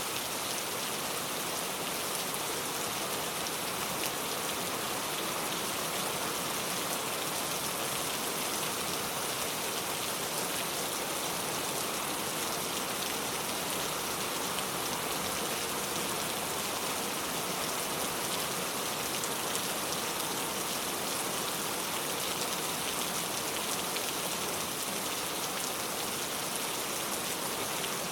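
Steady rain falling and pattering on surfaces, an even hiss of drops with no change in strength.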